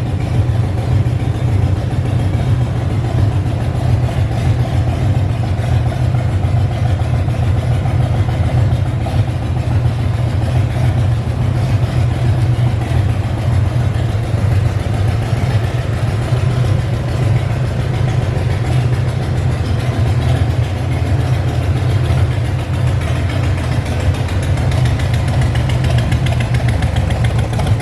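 2017 Harley-Davidson CVO Street Glide's 114 cubic inch Milwaukee-Eight V-twin idling steadily through a Vance & Hines exhaust, with a deep, loud exhaust note.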